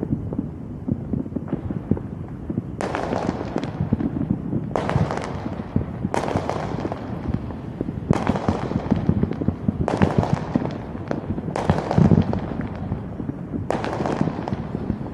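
Fireworks bursting overhead: about seven loud bangs, roughly one every two seconds, each trailing off in a fading crackle, over a steady low rumble.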